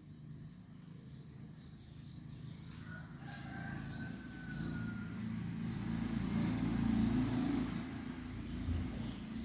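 A motor vehicle passing by, its low rumble swelling to a peak about seven seconds in and then fading. A rooster crows faintly partway through.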